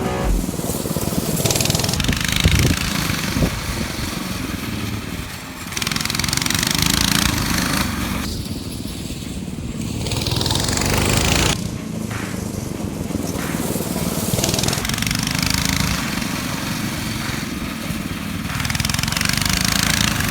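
Coleman BT200X mini bikes' small single-cylinder four-stroke engines running hard in a race, the engine noise rising and falling as the bikes come and go.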